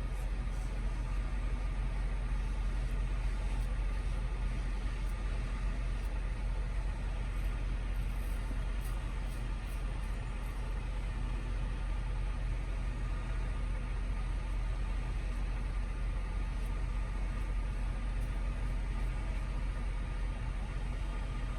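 Semi truck's diesel engine idling steadily, a constant low hum heard inside the cab.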